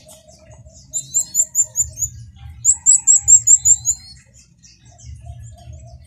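Small birds chirping: two quick runs of sharp, very high chirps, about six a second, starting about a second in and again near three seconds in, mixed with a few rising whistles, over a faint low pulsing background.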